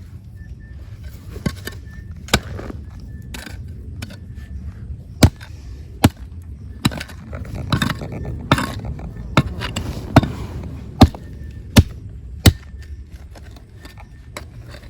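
Irregular sharp knocks and clacks of hard rock being struck and shifted, about a dozen in all, with scraping through gravel around the middle, over a low steady rumble.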